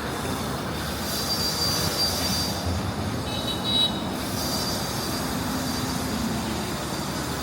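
Steady city street traffic noise, with a brief high-pitched squeal a little past the middle.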